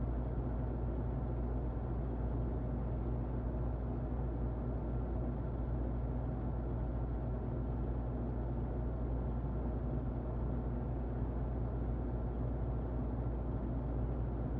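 Muffled electric fan running steadily: an even, low whooshing noise with a faint steady hum.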